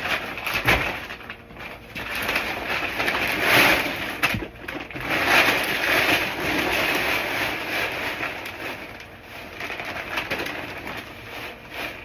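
Dry feed being poured and mixed in a plastic bucket: a hissing rustle that swells and fades several times, with a few light knocks.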